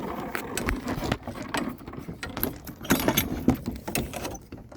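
Irregular mechanical clicking and rattling, a quick run of short clicks and knocks.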